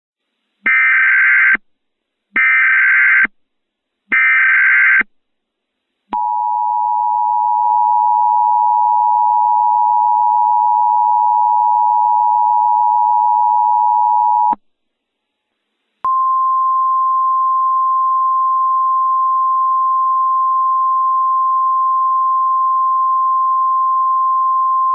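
Emergency Alert System signal announcing a severe thunderstorm warning. First come three short, screechy bursts of SAME header data. Then the two-tone attention signal sounds for about eight seconds, and after a short gap the single steady NOAA Weather Radio warning tone comes in.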